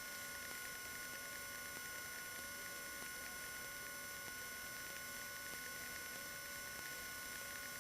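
Faint, steady cockpit noise of a 1977 Cessna 150 taxiing, its engine at low power: an even hiss with several high, constant whines.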